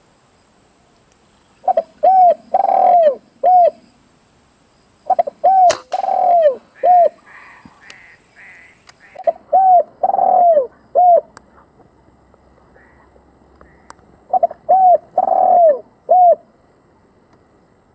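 Spotted dove (tekukur) cooing: four repeated phrases of four or five notes each, a few seconds apart. A single sharp click about six seconds in.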